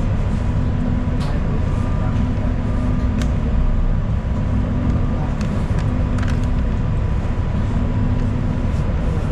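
Moving city transit bus heard from inside the cabin: a steady, heavy low drone of engine and road noise with a thin steady whine, and a few light clicks or rattles scattered through.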